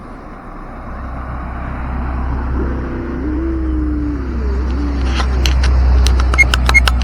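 A motor running, with pitch glides in the middle, growing steadily louder, then a quick run of sharp clicks near the end.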